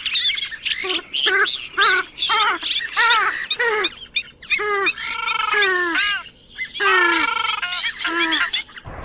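Purple swamphen calling: a rapid run of nasal calls with many harmonics that bend up and down, with a couple of longer rasping calls about halfway through.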